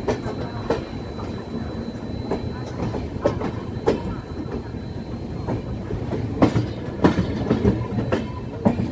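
Passenger train running, heard from an open coach door: a steady rumble of wheels on rails, with irregular sharp clacks as the wheels cross rail joints and points, several close together in the second half.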